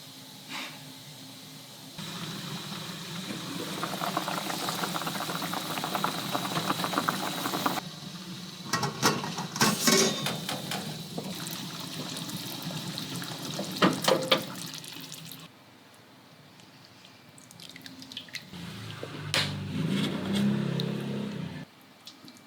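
Liquid running and splashing in a kitchen, with a few sharp knocks and clinks of dishes partway through.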